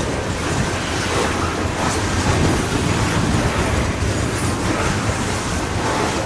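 Freight cars of a Canadian Pacific coal train rolling past at close range, making a steady rushing rumble of steel wheels on rail.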